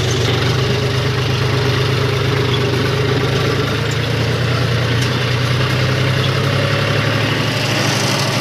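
John Deere 5050 D tractor's three-cylinder diesel engine running steadily.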